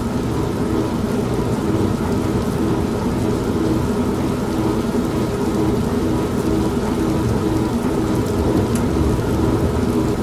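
An old washing machine running with a steady motor hum, mixed with steady rain and a low rumble of thunder.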